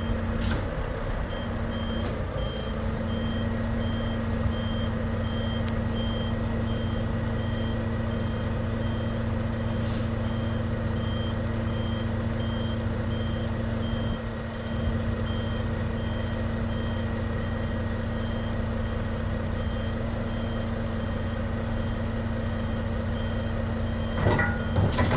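Volvo FM 460 truck's 13-litre six-cylinder diesel running steadily, with a high-pitched warning beeper sounding about twice a second. A few sharp knocks come near the end.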